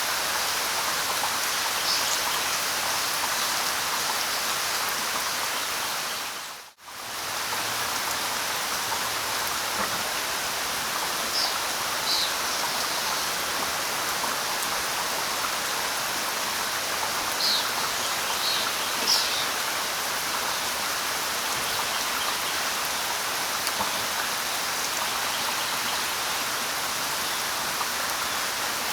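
Steady light rain pattering on leaves, with a few short high bird chirps scattered through it, clustered around a dozen seconds in and again near two-thirds of the way. The rain sound drops out for a split second about seven seconds in.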